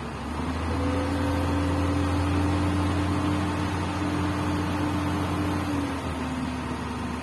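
Komatsu PC200 excavator's diesel engine running. A steady hum rises in pitch and loudness shortly after the start, holds for about five seconds, then settles back down near the end.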